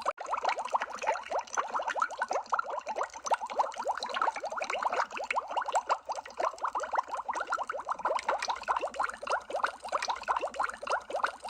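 Underwater bubble sound effect: a dense, continuous stream of small bubble blips, each a quick rising plink, with a brief break just after the start and again at the very end.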